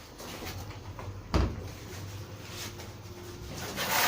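A single dull thump about a second in, over a faint low hum.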